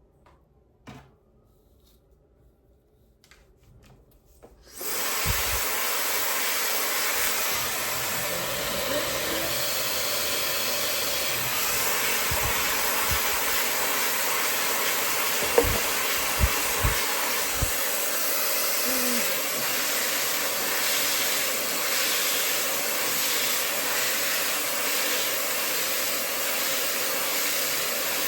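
A few faint clicks, then about five seconds in a high-speed brushless hair dryer switches on and runs with a steady airflow hiss. A few brief low thumps come around the middle.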